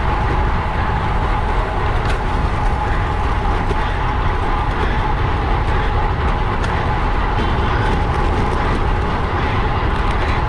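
Wind rushing over the microphone of a bike-mounted camera while cycling, a steady loud rumble with a thin steady tone running through it.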